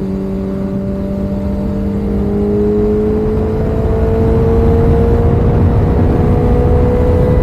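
BMW S1000RR inline-four engine pulling steadily, its note rising slowly as the bike gains speed, over a rushing noise that grows louder.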